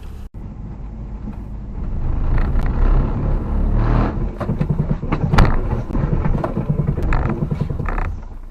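Vehicle noise picked up by a dashcam: loud, low road and engine rumble that swells about two seconds in, broken by several sharp knocks, the loudest about five and a half seconds in.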